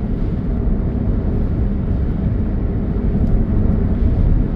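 Steady low rumble heard from inside a moving car's cabin: road and engine noise mixed with gusting wind.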